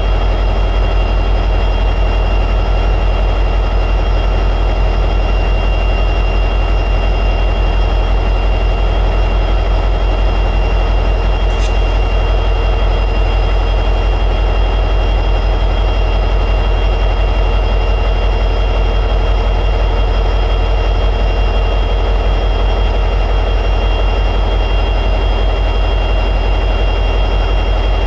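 EMD 710G3B two-stroke diesel prime mover of an SD60E locomotive running steadily at high idle, with a steady high whine over its low rumble. There is one short click about twelve seconds in.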